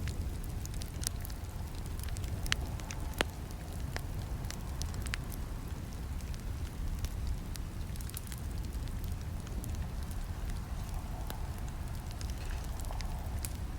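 Campfire burning: a steady low rumble of flames under irregular sharp crackles and pops, with a few louder snaps in the first five seconds.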